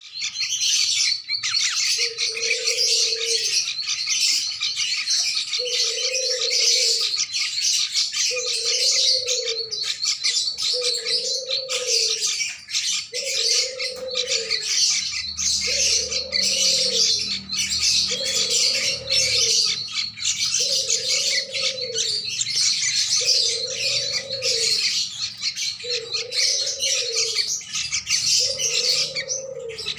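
Bulbuls giving a dense, unbroken stream of high chirps and squawks: the begging calls of a young yellow-vented bulbul as a sooty-headed bulbul feeds it. Under them, a separate low hooting note about a second long repeats evenly every two and a half seconds or so.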